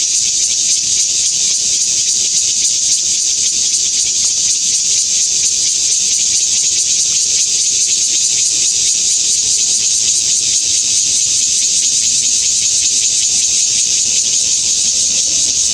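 Taiwanese bear cicada (Cryptotympana takasagona) singing: a loud, steady, high-pitched buzz that holds without a break.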